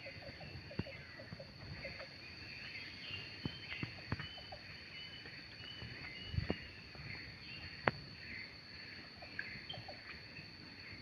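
Birds chattering with many short, busy calls over a steady high insect drone, with a few sharp clicks or knocks scattered through.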